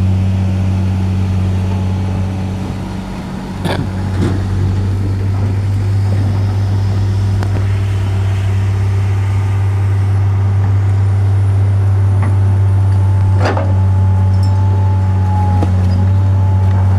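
A heavy vehicle's engine running steadily at idle, an even low hum, with two sharp knocks, one about four seconds in and one about thirteen seconds in.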